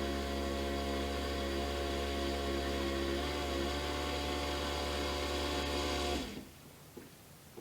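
Dishwasher motor running with a steady hum, then shutting off abruptly about six seconds in; a few faint clicks follow.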